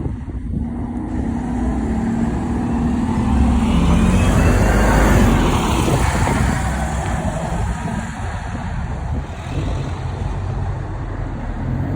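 Scania OmniCity bus engine accelerating, heard from on board. It builds in pitch and loudness over the first five seconds or so, then eases to a steadier run.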